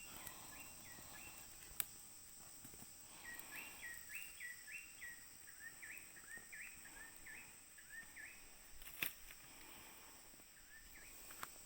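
Quiet outdoor ambience: a bird calls in a run of short, repeated chirping notes, about two a second, over a steady high-pitched insect drone, with a few sharp clicks.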